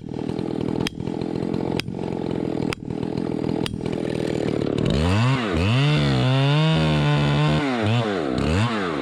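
Gas chainsaw idling with a sharp tick about once a second, then revved up about five seconds in and held at high speed for a few seconds before dropping back toward idle with one more short blip near the end.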